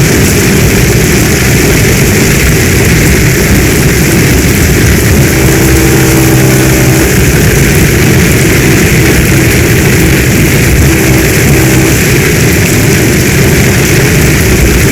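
Heavy rain pouring down steadily in a loud, even rush. A few faint low tones come up briefly in the middle.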